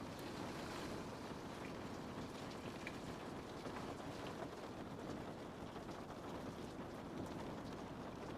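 Steady rain falling on a window: an even hiss with faint, scattered drop ticks.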